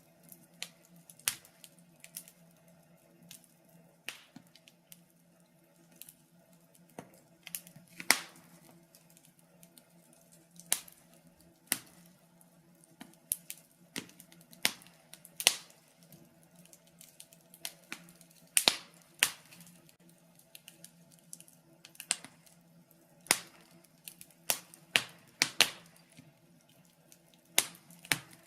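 Wood fire in a fireplace crackling, with sharp irregular pops and snaps at uneven intervals over a faint steady hum.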